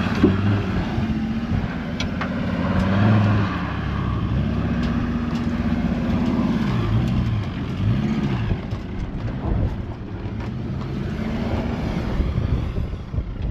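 A four-wheel-drive's engine running under load on an off-road track, its revs rising and falling several times, with a few sharp knocks near the start and about two seconds in.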